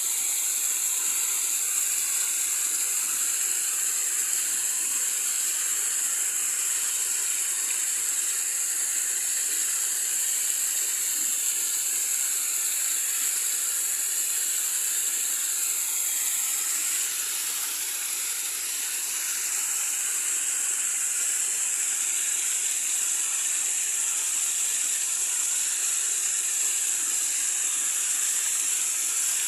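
Running water: a steady, high-pitched rushing hiss that does not let up.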